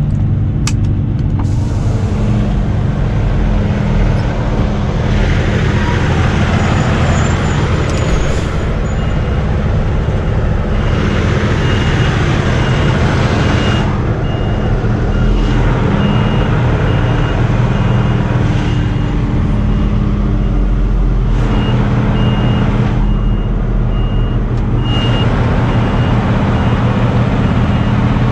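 Semi-truck diesel engine running at low speed, heard from inside the cab, with stretches of hiss coming and going. From about nine seconds in, a faint reversing beeper sounds in an even repeating pattern.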